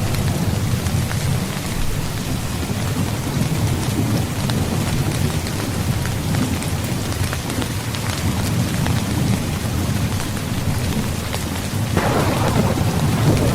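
Steady rain with a low, rolling rumble of thunder underneath. The thunder swells louder about twelve seconds in.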